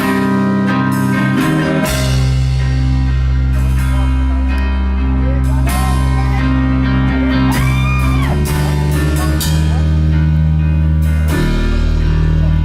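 Live rock band playing: electric guitar, bass and drum kit, with a little singing, loud and steady. The bass drops lower about two seconds in and changes again near the end.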